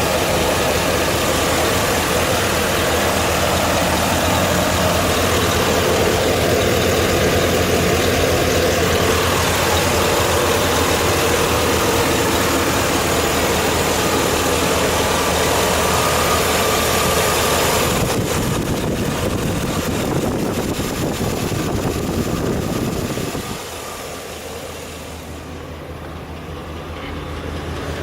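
2013 Chevy Silverado's 6.0-litre L96 V8 idling steadily. The sound grows quieter about three-quarters of the way through.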